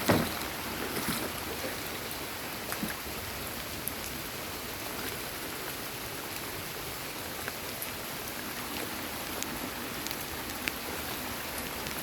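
Steady rain falling, with scattered sharper ticks of single drops landing close by, and a short bump right at the start.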